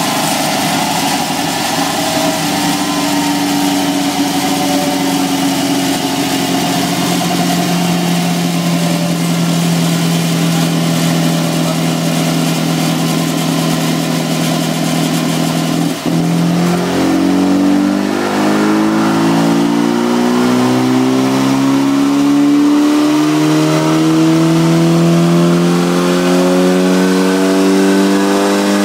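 MG Midget race car's four-cylinder engine running under load on a rolling-road dynamometer. The revs sag slowly for the first half, there is a brief break about halfway, and then the revs climb steadily for the rest.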